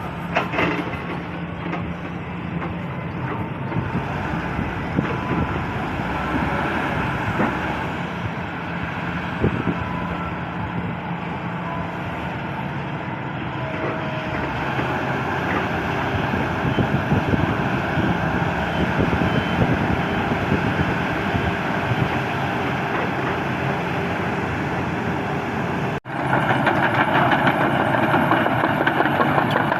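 Excavator's diesel engine running steadily, with clanks and rattles from the machine. Near the end there is a brief break, after which it is louder.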